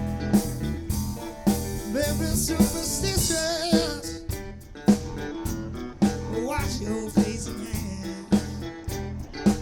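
Live soul band playing: drum kit with a hit about once a second over bass and electric guitar, with a wavering lead line riding on top.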